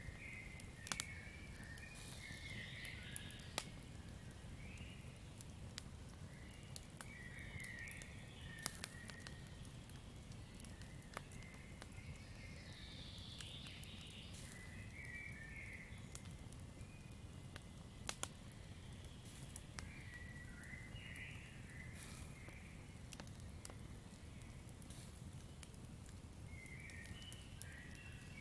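Campfire crackling: scattered sharp pops over a low, steady rumble. Short bursts of chirping calls from the night forest come every few seconds.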